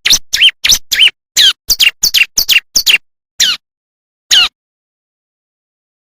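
Bar-winged prinia (ciblek) song: a quick run of short, sharp chirps, about four a second, then two more spaced-out notes before it stops about two-thirds of the way through. The notes are separated by complete silence.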